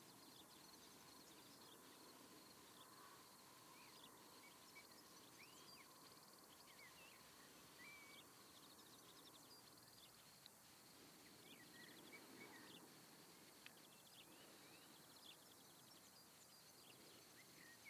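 Near silence: faint background hiss with scattered faint, distant bird chirps.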